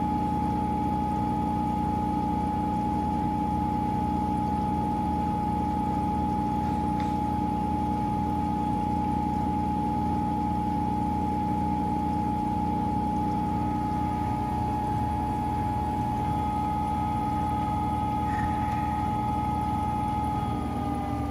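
Washing machine running with a steady motor whine over a low hum and water sloshing, the pitch falling near the end as the motor slows.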